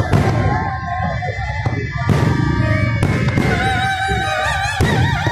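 Loud music with a wavering sung melody over a steady low rumble, broken by sharp firework bangs about four times.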